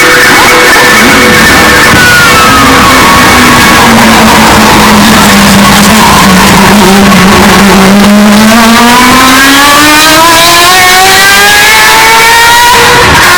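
Historic Group C race car engine, heavily overdriven and distorted. Its pitch drops over several seconds as the car slows, then climbs steadily for about five seconds as it accelerates hard.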